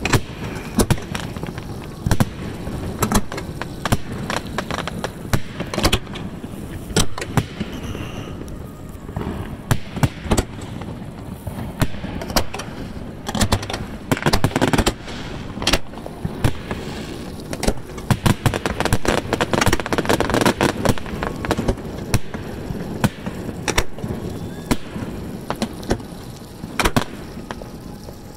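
Aerial fireworks shells of 4, 5 and 6 inches, fired from barges and heard at close range: a continuous barrage of sharp bangs at irregular intervals, often several a second.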